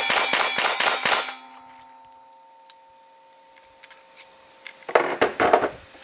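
Semi-automatic pistol firing the last several shots of a fast string, about five or six a second, every round going off. The shots stop about a second in and leave a metallic ringing that fades over the next few seconds; there is handling clatter near the end.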